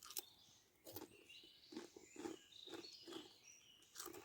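Faint crunching of crisps being chewed close to the microphone, several soft bites in a row.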